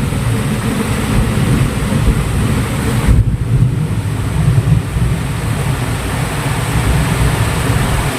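Heavy rain pouring down, an even hiss, with wind buffeting the microphone as a constant low rumble.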